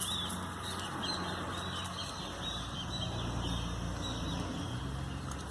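A bird calling in a quick series of short, falling chirps, phrase after phrase, over a steady low hum that grows louder about halfway through.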